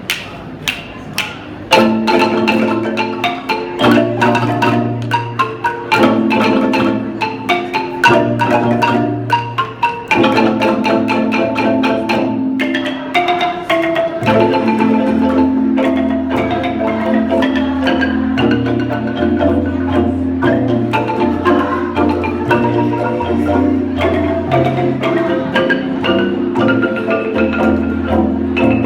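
Kolintang ensemble of wooden mallet-struck xylophones playing, with a bass kolintang holding low notes under fast melodic strikes. A few single strikes come first, then the full ensemble comes in about two seconds in.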